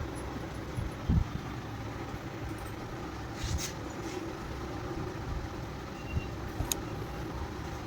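Steady low rumble of motor vehicles running, with a few sharp clicks and knocks; the loudest is a low thump about a second in.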